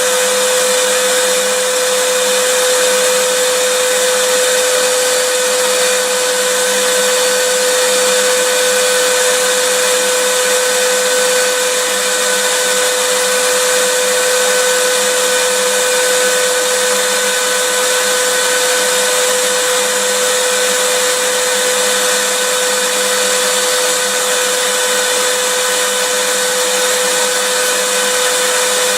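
Vacuum cleaner motor running steadily: an even, loud rushing hiss with a constant hum on top.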